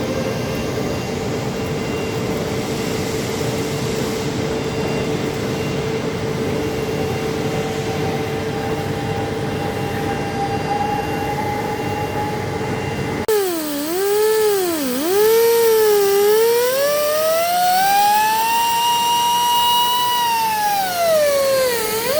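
Heavy lathe running with a steady mechanical hum and a held tone. About thirteen seconds in, it cuts suddenly to a loud pitched whine that swoops down and up, climbs and falls again near the end.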